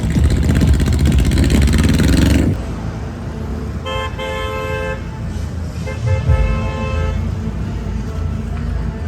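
A car engine revving hard, cutting off about two and a half seconds in. Then a car horn sounds twice, each honk about a second long, over a steady low rumble of engines.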